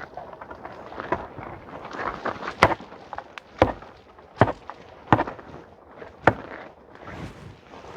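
Five sharp knocks, about a second apart, as a support is knocked into place under a fallen tree limb, with faint rustling between them.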